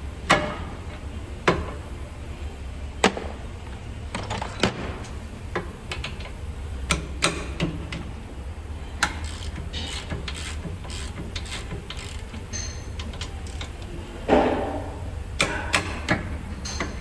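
Irregular metal clinks and knocks of hand tools and parts being handled during brake work, over a steady low hum, with one heavier clunk near the end.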